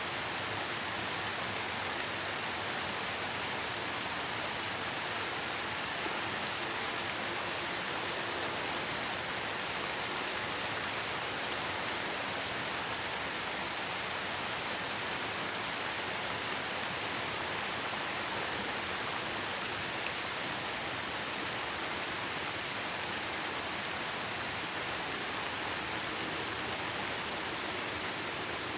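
Steady rainfall, a constant even hiss of rain with faint individual drop ticks.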